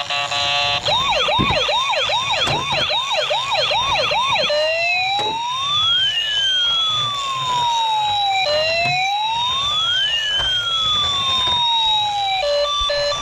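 Electronic police-style siren. It starts with a fast yelp, about three rising whoops a second, then changes to two slow wails, each rising and falling over about four seconds with two tones sweeping in opposite directions. A short stepped two-note tone comes near the end.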